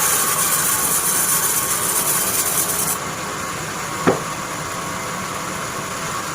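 Band sawmill machinery running with a steady mechanical noise. Its high hiss drops away about three seconds in, and a single sharp knock sounds about a second later.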